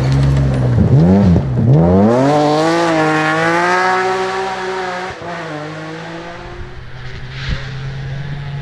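Rally car engine on a gravel stage. The revs dip and jump sharply twice in the first two seconds, then climb in one long rise under hard acceleration. About five seconds in the sound drops away, leaving a weaker, steadier engine note.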